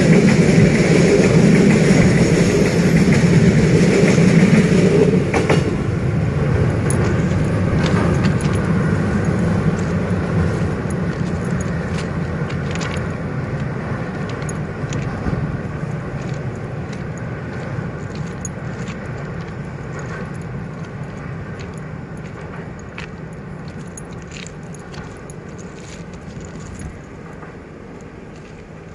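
Passenger train crossing a railway bridge: a loud rumble that drops suddenly about five seconds in, then fades steadily as the train moves away, with scattered metallic clicks and clinks.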